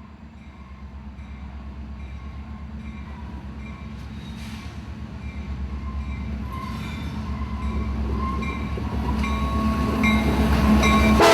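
CSX diesel freight locomotive approaching with a train of empty rock hoppers, its engine rumble growing steadily louder. Its horn starts to blow at the very end.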